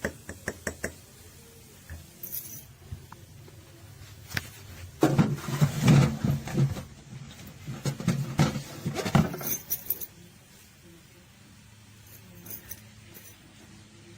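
Clinking and rattling of small hard objects being handled: a few sharp clicks at the start, then a busy spell of knocks and rattles from about five to ten seconds in.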